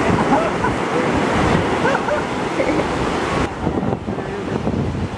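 Ocean surf washing in, with wind buffeting the microphone; the high hiss of the surf thins out about three and a half seconds in.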